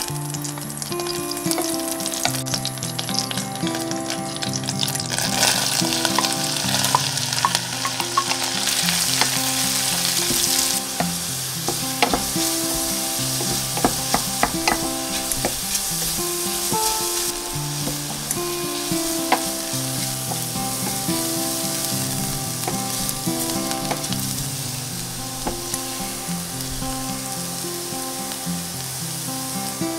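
Butter and sliced leeks frying in a stainless steel saucepan, sizzling and stirred with a wooden spoon that clicks against the pan a few times. The sizzle grows louder a few seconds in and eases in the second half, under soft background music with a melody.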